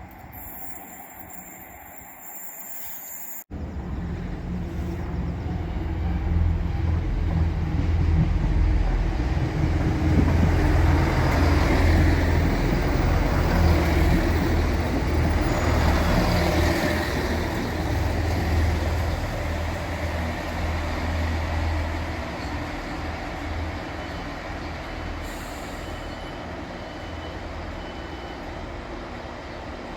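Diesel train passing on the line, engine running with a steady low drone. It starts abruptly about three seconds in, is loudest in the middle, and fades slowly.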